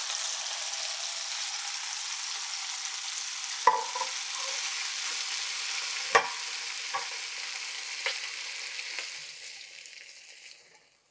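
Chicken fillets sizzling in ghee in a frying pan, with a few sharp knocks of a utensil against the pan. The sizzle fades away near the end.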